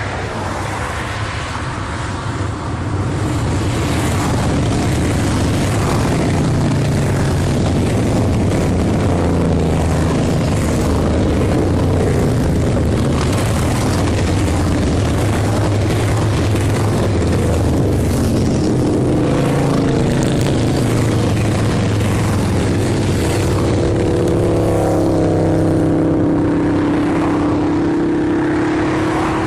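Several motorcycle engines running together, their pitch rising and falling as the bikes rev and pass. It grows louder a few seconds in, and near the end one engine holds a steadier, stronger note.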